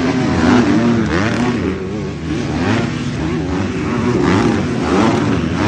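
Several 250cc motocross bikes racing. Their engines rev hard and fall back over and over as the riders work the throttle and shift.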